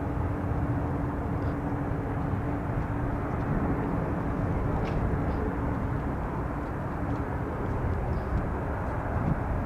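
Boeing 777-200ER airliner's jet engines heard on landing: a steady rushing noise with a constant low hum.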